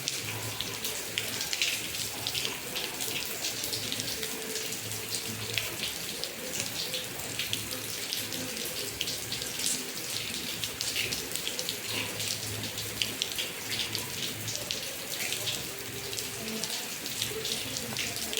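Rain falling steadily, with water running off and many close drops splattering in sharp ticks.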